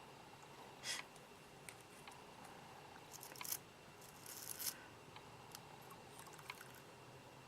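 Quiet handling sounds from tending potted succulents: a brief hissing rustle about a second in, then small clicks and another short rustle between about three and five seconds in.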